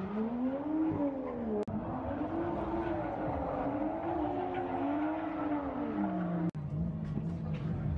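Drift car engines revving on the circuit, their pitch swinging up and down as the throttle is worked, with abrupt cuts in the sound about a second and a half in and again near the end, after which a steadier lower engine hum runs on.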